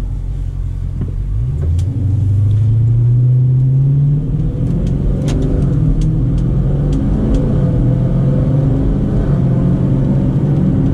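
Dodge Challenger Scat Pack 1320's 6.4-litre HEMI V8 heard from inside the cabin, accelerating with a rising note for a couple of seconds, then settling into a steady cruise. A few light ticks are heard along the way.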